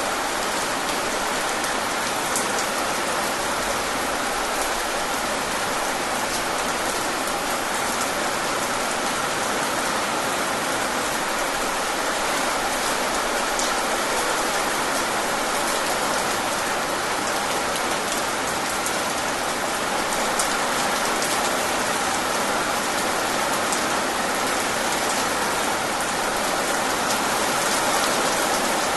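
Steady rain falling and pattering on a surface, with many individual drops ticking through a dense, even hiss.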